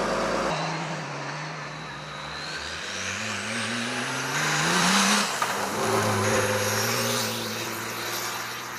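Rally-raid car engine accelerating hard, its pitch climbing in steps through the gears and loudest about five seconds in, then dropping to a steadier note as it fades.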